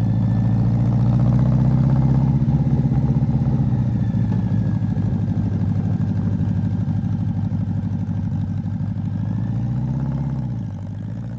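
A BMW K100 motorcycle's inline four-cylinder engine running steadily with an even beat, its note dropping a little about ten seconds in.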